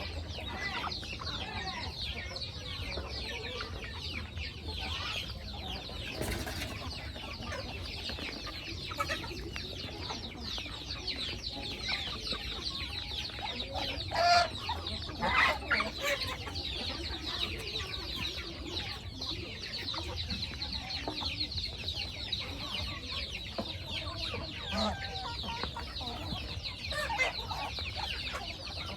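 A flock of chickens clucking and calling, a dense continuous chatter of short high calls, with a few louder calls about halfway through.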